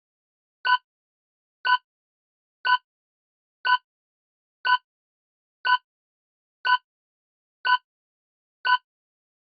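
A countdown timer sound effect ticking like a clock, one short tick a second, nine ticks in all, counting down the time to answer a quiz question.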